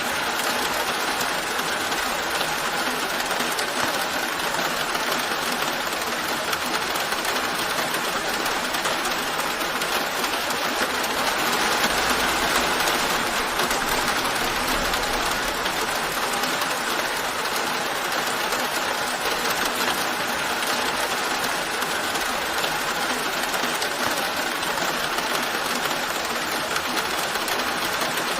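Steady rain falling in an even, continuous patter that swells slightly about halfway through.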